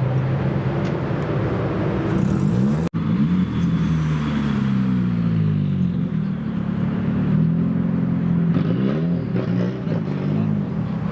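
Car engines running and being revved, their pitch repeatedly rising and falling, with a brief break about three seconds in.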